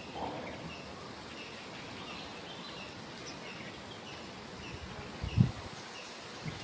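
Small birds chirping in short, repeated calls about twice a second over steady outdoor background noise, with one brief low thump about five seconds in.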